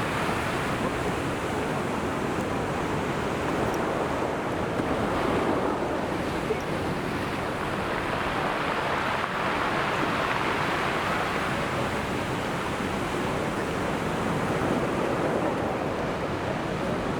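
Sea surf: waves breaking and washing on the shore in a continuous rush that swells and eases as each wave comes in.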